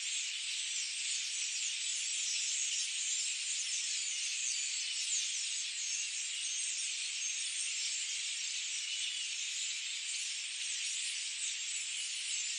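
Dense chorus of many small birds chirping and twittering all at once, a steady high-pitched wash of overlapping short calls.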